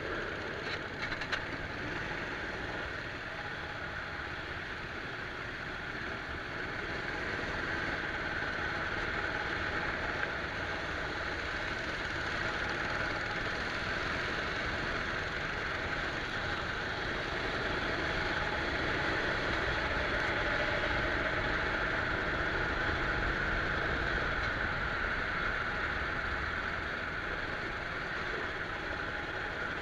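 Rental go-kart engine running steadily on track, heard from a camera mounted on the kart, its pitch wavering gently with the throttle and a little louder past the middle.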